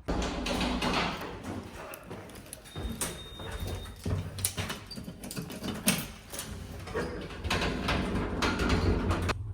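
Lift (elevator) arriving and its sliding doors working, with a run of knocks and clatters over a steady low hum; a brief high tone sounds about three seconds in, and the clatter stops abruptly near the end while the hum carries on.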